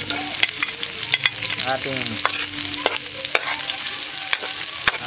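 Garlic and chopped red onion sizzling in hot annatto oil in a wok, with a ladle stirring and clicking irregularly against the pan.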